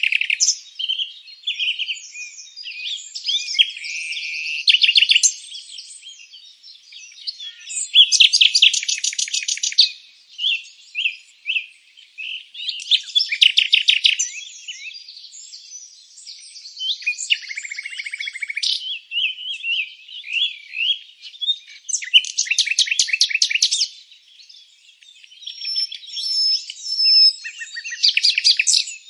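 Birds chirping and singing, with dense bursts of rapid trills every few seconds among shorter overlapping chirps.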